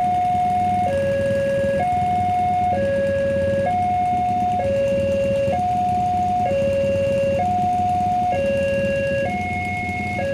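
Railway level-crossing warning alarm sounding a steady two-tone signal, a higher and a lower tone alternating about once a second. It warns that the barrier is down and a train is approaching. A steady low hum runs underneath.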